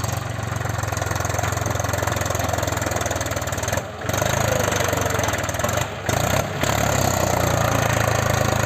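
Diesel tractor engine running steadily at working speed, dropping out for an instant twice, about four and six seconds in.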